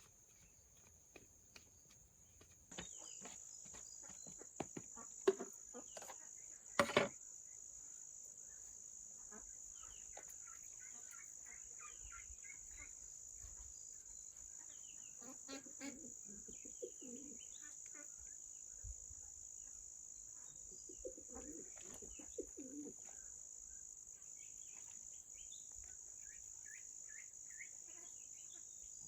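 Outdoor countryside ambience: a steady high-pitched insect drone that sets in a few seconds in, with birds chirping now and then. Two sharp knocks stand out in the first several seconds.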